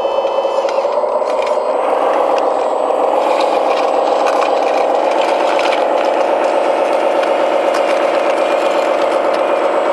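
Small electric motors and gearing of a radio-controlled hydraulic construction model whirring with a rattle, its pitch wavering slightly as the load changes.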